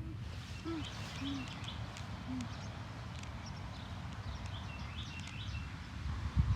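Outdoor ambience: small birds chirping in short scattered calls over a steady low rumble of wind on the microphone, with a louder low bump near the end.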